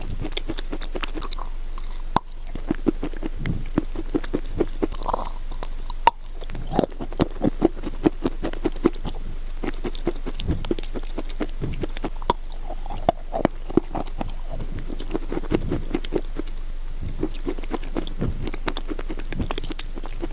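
Close-miked chewing and crunching of wet clay: dense runs of small, sharp crunches, pausing briefly every few seconds.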